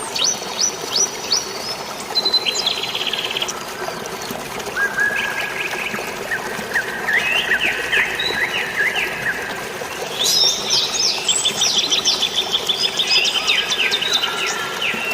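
Several songbirds chirping and trilling in quick repeated notes, overlapping one another and busiest in the last third, over a steady hiss of rain and flowing water.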